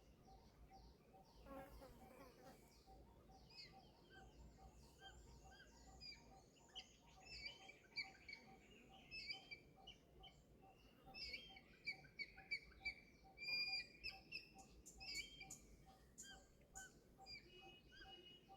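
Many short, high-pitched chirps and twitters from small animals, coming thick and fast in the middle part, over a faint steady ticking about three times a second.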